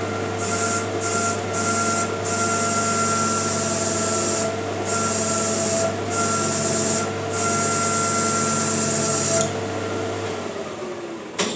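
Maximat lathe motor running at speed while a bicycle disc brake grinds on the spinning brake disc: a steady hum with a high, hissing rub that comes and goes as the brake is squeezed, hard enough to make the disc smoke. About nine seconds in, the rubbing stops, then the lathe winds down and goes quiet.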